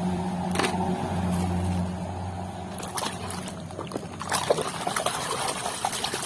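Water sloshing, trickling and splashing as a muddy toy car is rinsed by hand in a basin of water. A steady low hum underlies the first couple of seconds, then fades.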